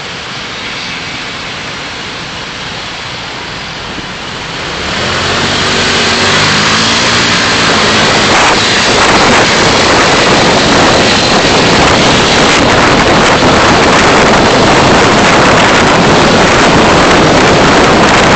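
Car driving, with steady road and wind noise that swells sharply about five seconds in as the car speeds up; the engine's pitch climbs briefly, then the noise stays loud and even.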